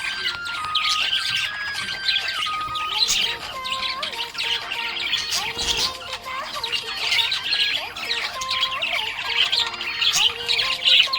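Budgerigar chirping in rapid, continuous chatter, mixed with background music carrying a simple stepping melody.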